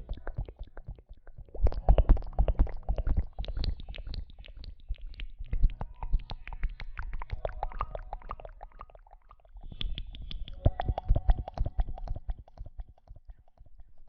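Close-miked ASMR rustling: dense crackling and scraping right against the microphone, easing off about nine seconds in and then picking up again.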